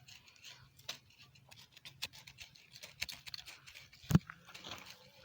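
Soil being scraped and turned to mix manure into it, a string of short irregular scrapes and crunches, with one loud thump about four seconds in.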